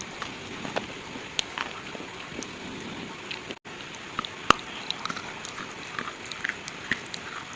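Slate pieces crunching and cracking in a series of irregular sharp snaps over a steady hiss, the loudest snap about halfway through.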